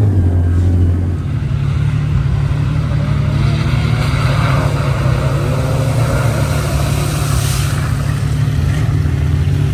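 Side-by-side UTV engine running, its drone stepping up in pitch about a second in and then holding steady.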